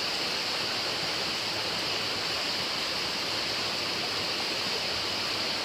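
Steady, even rushing noise with no distinct clicks or changes.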